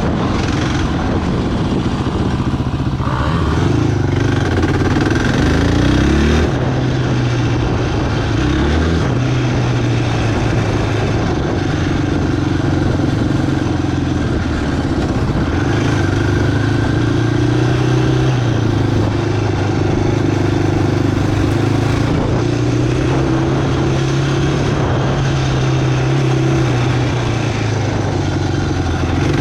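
Single-cylinder four-stroke quad bike engine running under way, its revs rising and falling, with a quick climb in revs a few seconds in.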